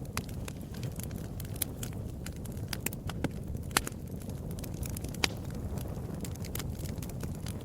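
Wood fire in a fireplace crackling, with frequent sharp snaps and a few louder pops over a steady low rumble of flame.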